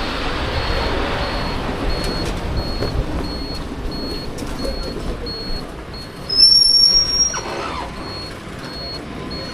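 Road and wind noise of a ride on a Bajaj Chetak electric scooter, with a short high beep repeating about twice a second. About six seconds in comes a loud, high-pitched squeal lasting under a second.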